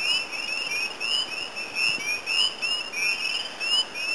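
Chorus of spring peepers: many short, rising peeps overlapping, several a second.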